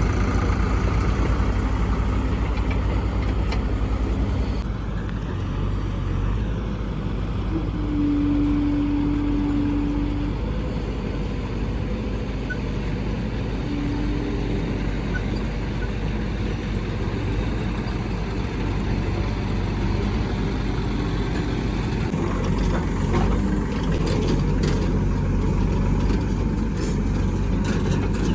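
Diesel engine of heavy machinery running steadily, its speed rising and falling a little. A steady higher tone sounds for about two seconds about eight seconds in, and again briefly about fourteen seconds in.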